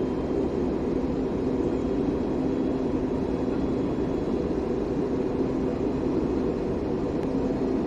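Steady airliner cabin noise, the even rumble of the engines and airflow heard from inside the passenger cabin during descent.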